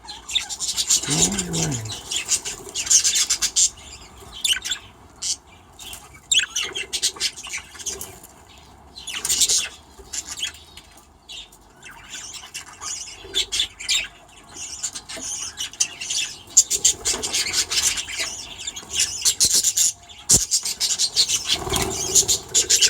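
A flock of budgerigars chattering and chirping continuously, many short high-pitched calls overlapping.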